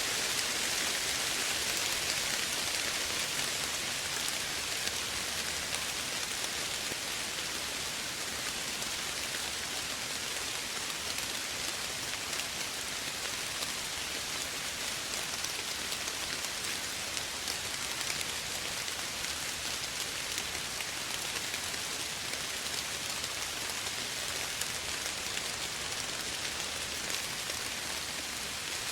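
Steady, gentle rain falling: an even hiss with fine scattered drop ticks.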